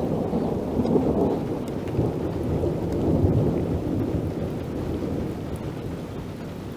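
A long roll of thunder rumbling, swelling twice and then slowly dying away.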